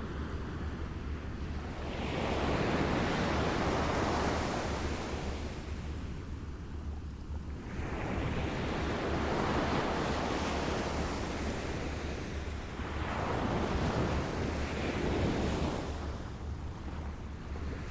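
Small waves lapping on a shore, the water washing in and receding in three slow swells, each lasting a few seconds, over a steady low rumble.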